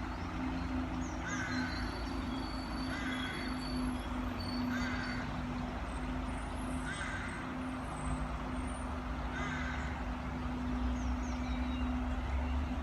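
A steady low motor hum runs throughout. Over it a bird gives a short call again and again, about every one and a half to two seconds.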